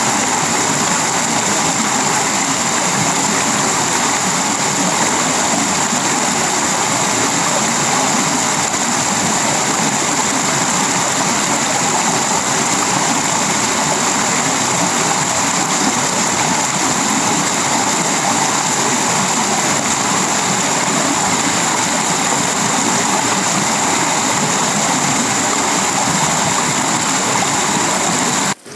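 Heavy tropical rain pouring steadily on sheet metal, wood and leaves: a dense, even hiss. It breaks off abruptly just before the end.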